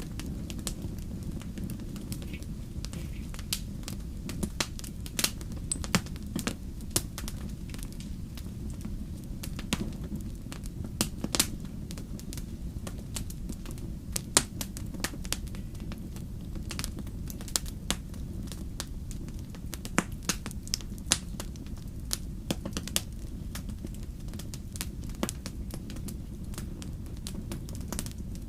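Fire crackling: irregular sharp pops and snaps, a few louder ones standing out, over a steady low rumble.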